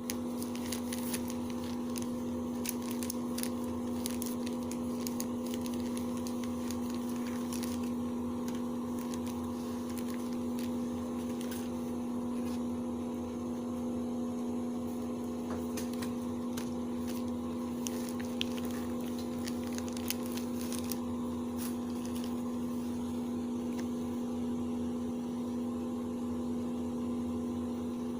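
A steady electrical-sounding hum throughout, with many small scattered clicks and light rustles, as of a small perfume box and its packaging being handled and opened.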